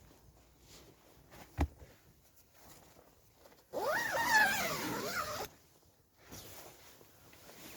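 A zip pulled in one long stroke of about two seconds, a little after the middle, its pitch sweeping up and down. A single sharp knock comes earlier.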